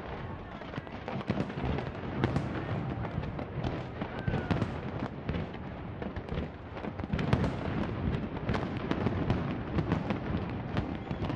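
Fireworks display: a dense barrage of bangs and crackles in quick succession, growing louder from about seven seconds in.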